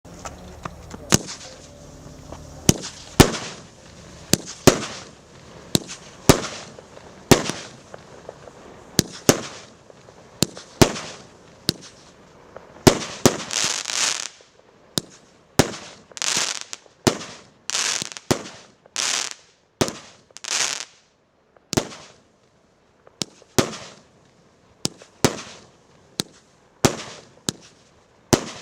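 Galaktika 'White Nights' A7390 36-shot 1-inch fireworks cake firing its shots in a steady series, one sharp bang every second or so, often in close pairs. Several shots in the middle are followed by a crackling hiss lasting about a second, as crackling stars burn out.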